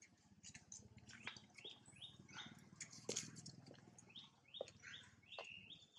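Faint bird chirps in the tree canopy: runs of short, falling calls, several a second, over a low steady hum.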